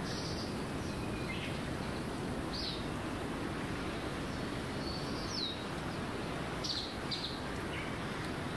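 Wild birds giving short chirps every second or two, several sweeping down in pitch, over a steady outdoor background hiss.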